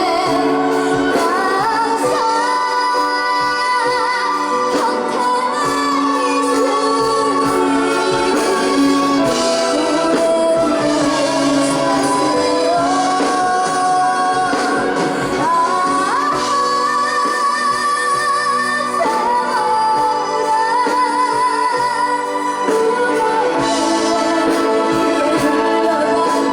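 A young female singer singing a trot song live with its instrumental accompaniment, with long held, sliding notes.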